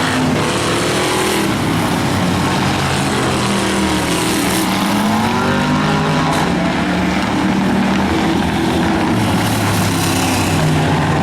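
Several demo race cars running on an oval track, their engines overlapping and rising and falling in pitch as they accelerate and lift off.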